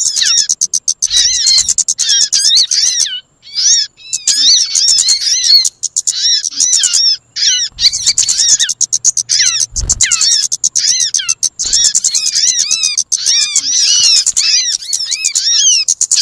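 Bird-trapping lure recording of bird calls: a dense, fast stream of high chirps and arching whistled notes, overlapping and repeating with only short breaks.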